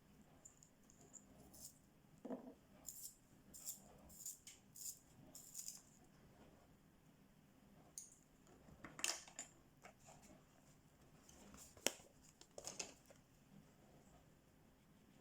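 Quiet clicks, taps and short scratchy strokes of colouring tools being handled on paper and a tabletop, in small clusters, with one sharper click a little after the middle.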